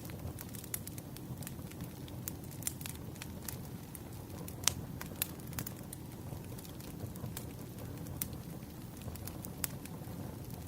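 Wood campfire burning, with a steady low rumble of flames and irregular sharp crackles and pops; one louder pop comes a little before the middle.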